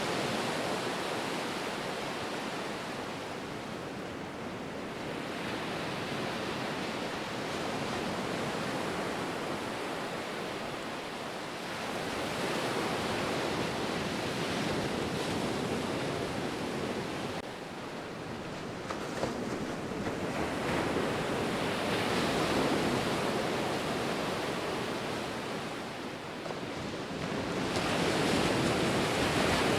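Ocean surf: waves breaking and washing in continuously, swelling and easing every several seconds.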